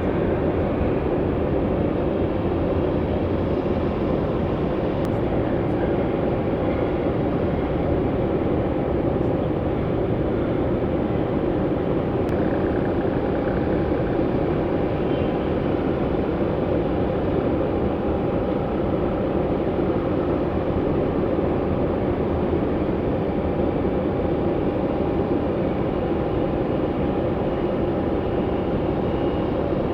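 Jet airliner engines running with a steady, unchanging noise and a faint steady whine.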